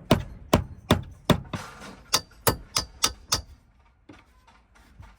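Hammer tapping a hex key against a stuck nut to knock it out: about nine sharp metal-on-metal blows, two to three a second, the later ones ringing, stopping about three and a half seconds in.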